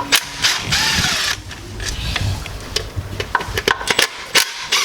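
Hand tools and metal parts being handled: a run of sharp clicks and knocks, with a stretch of scraping about a second in.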